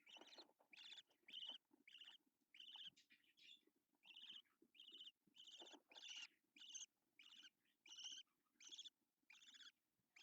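Budgerigar giving a steady run of short, faint chirping calls, about two a second.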